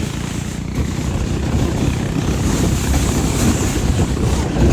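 Honda Rancher 420 ATV's single-cylinder engine running steadily under way, a low rumble mixed with wind buffeting the microphone.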